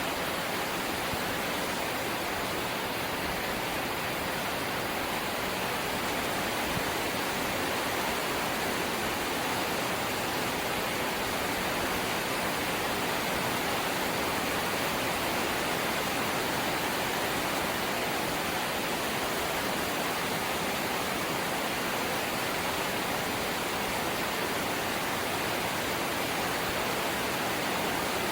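Steady rain on a corrugated zinc roof, an even, unbroken hiss with no single drops or gusts standing out.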